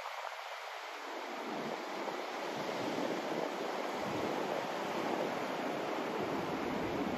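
Continuous white noise: an even hiss that swells slightly and takes on a deeper rumble from about a second and a half in.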